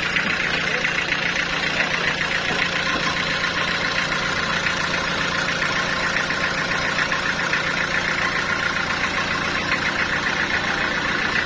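Sawmill machinery running steadily: a continuous, even mechanical drone with no breaks or changes in level.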